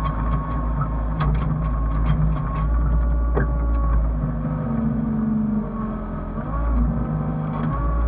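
Hyundai excavator's diesel engine running under working load, with a steady whine over it. A quick series of sharp knocks and clanks comes in the first half, about three a second.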